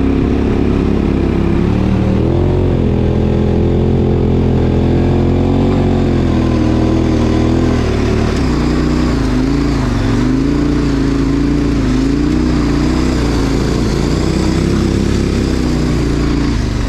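KTM 1090 Adventure's V-twin engine running at low speed, its pitch rising and falling gently with small throttle changes.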